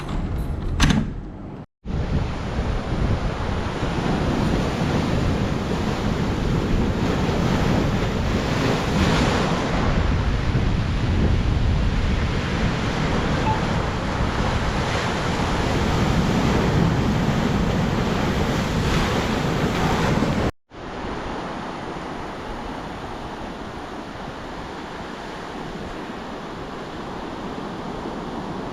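Sea waves breaking on a beach in a steady, swelling rush of surf, with wind buffeting the microphone. It drops to a quieter, even surf after a cut near the end.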